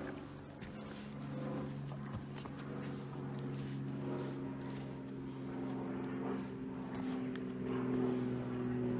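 A distant engine drone holding one steady pitch, growing louder toward the end, with footsteps knocking and scuffing on rocks.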